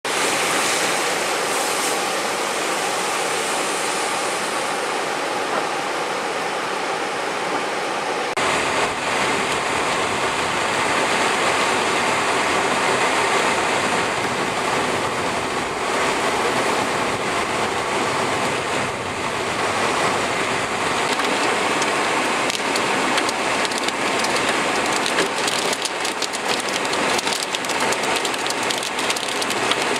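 Hard rain pouring down in a steady, dense hiss; the sound shifts abruptly about eight seconds in, becoming fuller and deeper.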